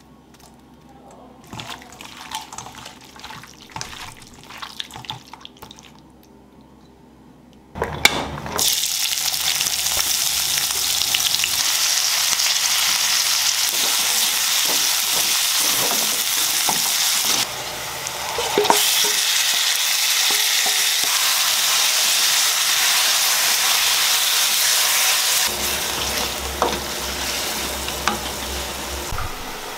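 Faint clicks and rustles, then, about a quarter of the way in, a sudden loud sizzle as sliced onions fry in hot oil in a wok, stirred with a wooden spatula. Later, marinated chicken pieces sizzle as they are stirred in the wok.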